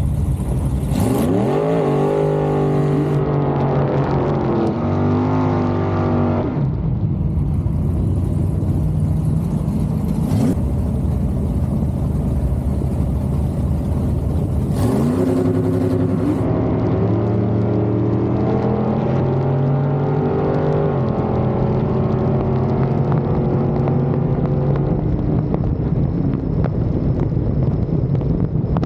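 A vehicle engine accelerating through the gears twice, its pitch climbing and dropping back at each shift, over steady road noise.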